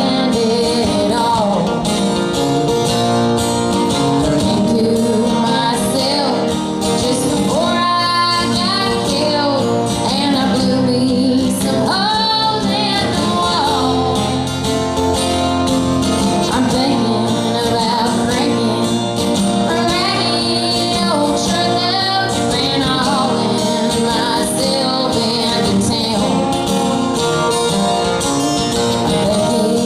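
Live country song: a woman singing with guitar accompaniment.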